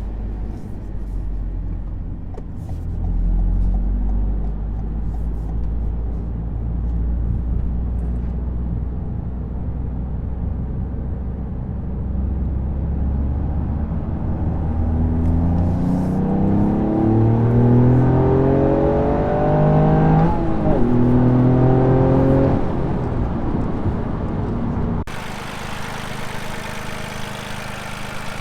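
Toyota GR Yaris's turbocharged three-cylinder engine, breathing through an aftermarket Milltek exhaust and downpipe, running with a steady low drone, then revving, its pitch climbing and falling back several times. About 25 seconds in the sound cuts suddenly to a different, noisier scene.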